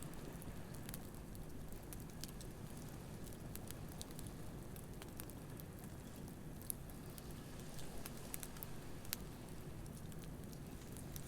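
Wood campfire crackling, with irregular sharp pops and snaps scattered through, over a steady low wash of waves on the shore.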